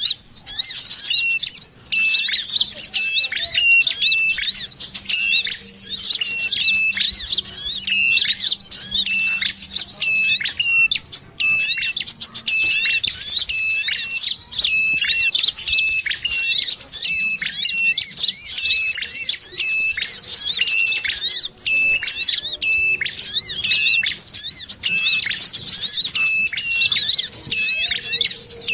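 Bird-lure recording: dense, continuous high chattering of small birds (sogon chatter) layered with ashy tailorbird and brown-throated sunbird calls. A short, lower note repeats about once a second under the chatter.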